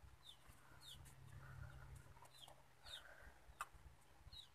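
Near silence with faint, short, high bird chirps that slide downward, heard several times in the background, and a single soft click about three and a half seconds in.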